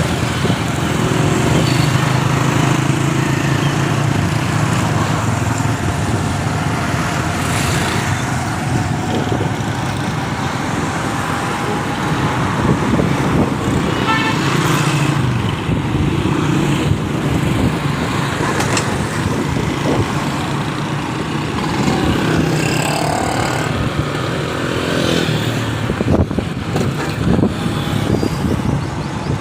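Busy street traffic: engines of motorcycles and cars running steadily, with vehicle horns tooting a few times.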